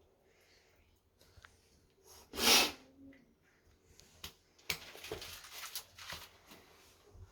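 A person's short, sharp, sneeze-like burst of breath about two and a half seconds in, followed by scattered light clicks and rustling.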